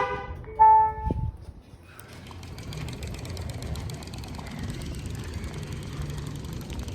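A short ringing ding and a brief steady tone that cuts off about a second in, then the steady rumbling noise of bicycles rolling along.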